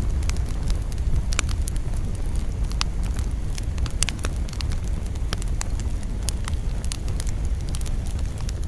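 Wood campfire burning, with many sharp crackles and pops at irregular intervals over a steady low rumble.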